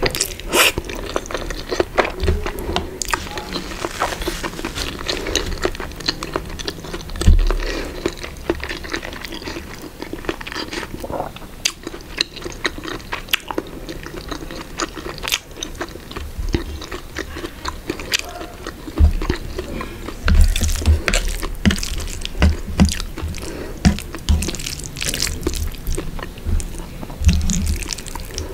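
Close-miked chewing and biting of spaghetti carbonara and sausages: a steady run of wet mouth clicks and smacks, with a few low thuds.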